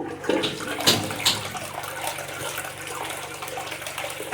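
Toilet being flushed: a sharp onset and a couple of knocks from the handle and cistern, then a steady rush of water through the bowl. It is a test flush of newly fitted plumbing, and the flush works.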